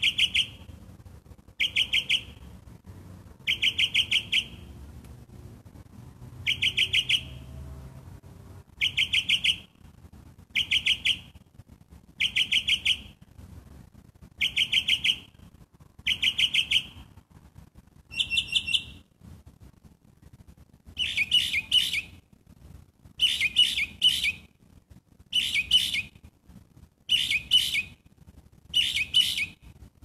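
A songbird singing: a short, rapid stuttering phrase repeated about every one and a half to two seconds, switching about twenty seconds in to a different, more varied phrase that is also repeated. The uploader takes the singer for a catbird.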